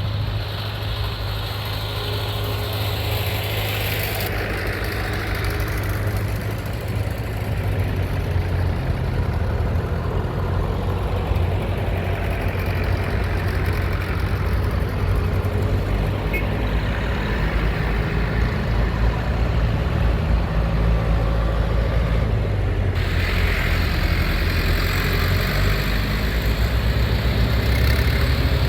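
Tractor engine running steadily with a low, even note. A hiss above it drops about four seconds in and comes back near the end.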